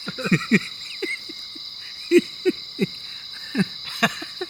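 Night insects, likely crickets, keeping up a steady high drone, with about a dozen short, falling-pitch calls from an unseen animal scattered irregularly through it.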